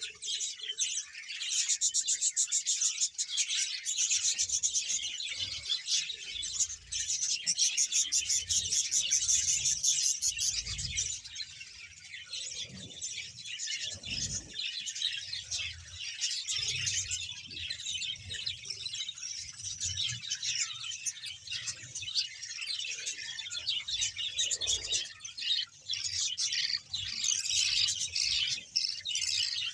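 A large colony of budgerigars chattering and chirping without pause, a dense, fast twittering of many birds at once.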